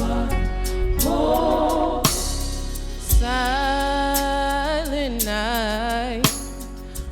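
Worship band music: a sustained melodic line that slides and wavers with vibrato, over steady low accompaniment, punctuated by a few drum hits.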